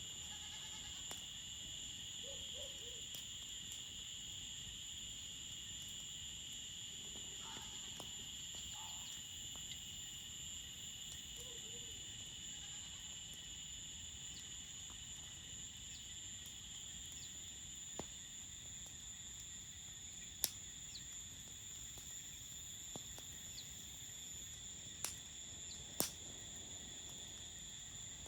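Night-time crickets chirring in a steady high chorus. A few faint low animal calls come in the first half, and a few sharp cracks come in the second half.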